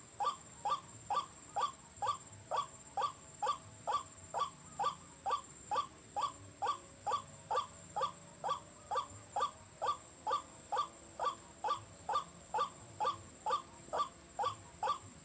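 White-breasted waterhen (ruak-ruak) call played on a loop from a battery-powered electronic bird caller: a short falling note repeated evenly about two and a half times a second. A faint steady high tone runs under it.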